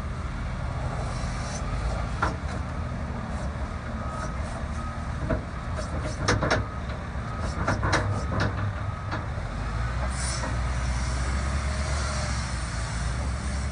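Heavy earth-moving equipment at work on sand, its engine rumbling steadily, with a cluster of sharp clanks a little past the middle.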